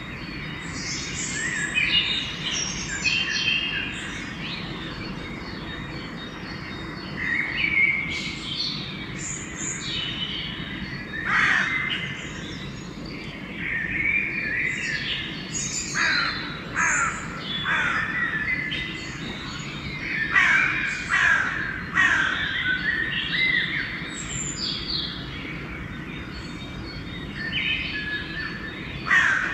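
Pre-dawn bird chorus: many songbirds singing and chirping over one another, with crows cawing among them, over a steady low background hum.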